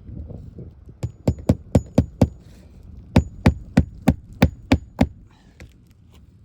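Hammer driving roofing nails into a roof shingle: two quick runs of sharp blows, six then seven, about four a second, each with a faint metallic ring.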